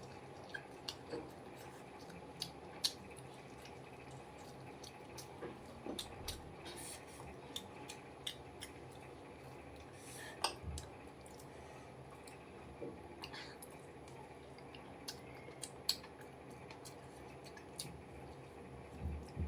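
Close-miked eating sounds: scattered short clicks and wet smacks of chewing and handling food, over a faint steady hum.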